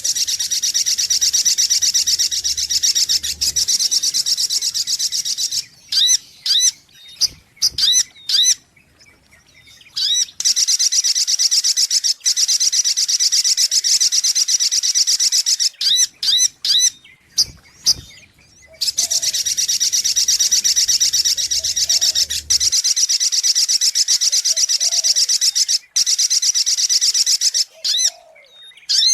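Recorded song of a spiderhunter (sogok ontong) used as a lure call: long, very fast trills of high notes lasting several seconds each, broken by short runs of separate sharp chip notes.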